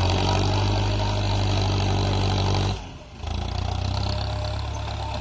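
Powertrac tractor's diesel engine running steadily with a low, even hum. A little under halfway through the sound drops away suddenly, then comes back somewhat quieter.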